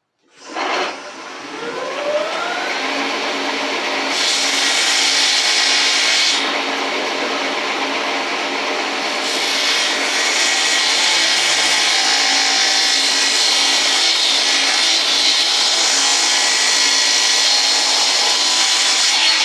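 Shopsmith saw blade cutting plywood: the motor winds up over the first couple of seconds, then runs steadily, with a harsher sawing hiss while the blade is in the wood from about four to six seconds and again from about nine seconds on.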